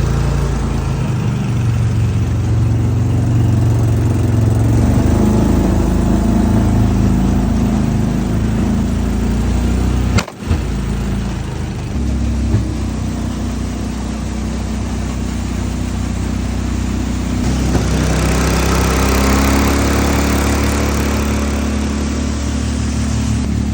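A motor engine running steadily, with one brief break about ten seconds in.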